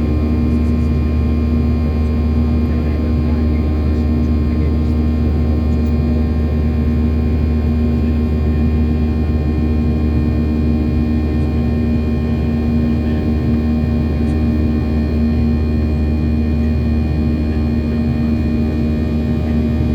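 Steady drone of a Boeing 737-800's CFM56-7B jet engines as heard inside the passenger cabin: a loud low rumble with several fixed humming tones above it, unchanging throughout.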